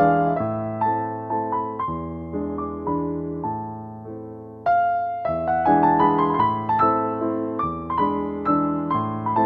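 Slow, gentle piano music: single notes and chords struck one after another, dying away about four seconds in before a louder chord picks the melody up again.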